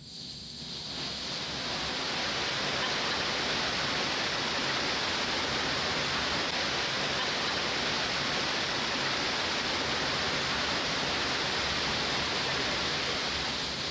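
Steady rush of flowing floodwater, an even hiss with no distinct splashes, fading in over the first two seconds and holding level.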